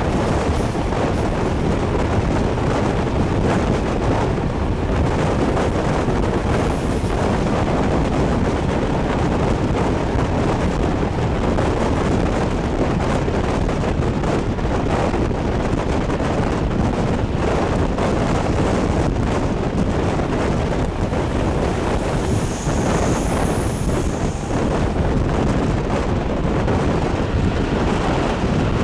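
A moving train running, a steady rushing rumble with wind buffeting the microphone. A brief, faint high squeal comes about three-quarters of the way through.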